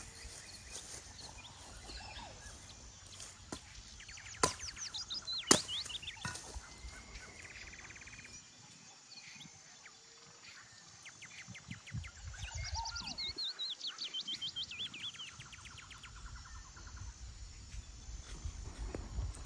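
Small birds calling in the forest: quick runs of chirps that slide down in pitch, one about four seconds in and another from about twelve to fifteen seconds, with a short trill between. Two sharp clicks come about four and five and a half seconds in.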